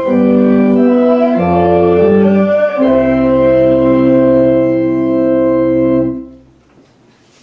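Organ playing sustained chords that close a piece of music: the chords change about a second and a half and about three seconds in, and the last is held for about three seconds before it is released about six seconds in, leaving a short fade into room noise.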